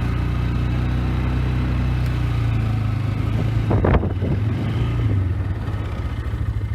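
Polaris Sportsman 500 ATV's single-cylinder engine running steadily while backing up with the plow, with a sharp thump about four seconds in; after about five seconds the engine drops to an even, pulsing idle.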